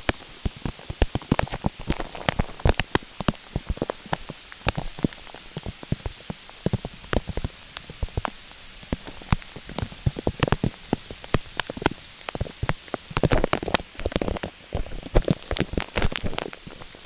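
Raindrops hitting the plastic wrap covering the camera: many sharp, irregular taps over a steady hiss of rain.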